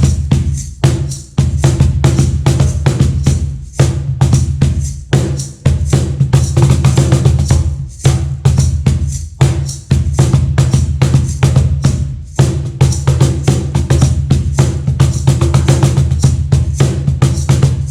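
Meinl cajon played by hand in a fast, busy groove: deep bass strokes alternating with sharp, bright slaps, with a few brief breaks in the rhythm.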